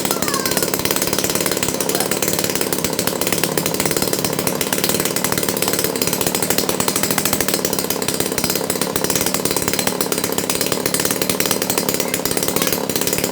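Small brush-cutter (grass-trimmer) engine, adapted to power an aircraft, running steadily at high speed on a test run.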